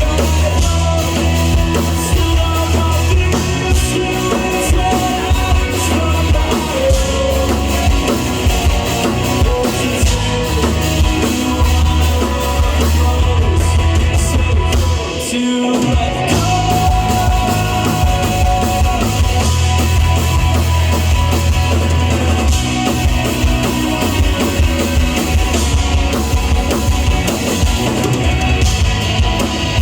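Live rock band playing a song, with drum kit and heavy bass. The bass and drums cut out for about a second halfway through, then come back in.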